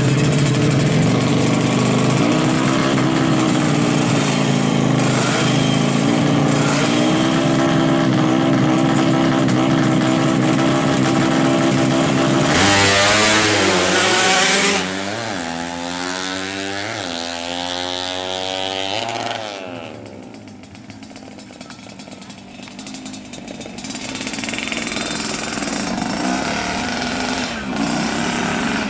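Yamaha RX-King two-stroke drag bike engine running and being blipped, then at about 12 seconds revving hard and pulling away through several gear changes, its pitch climbing and dropping with each shift as it fades into the distance. An engine sound builds again near the end.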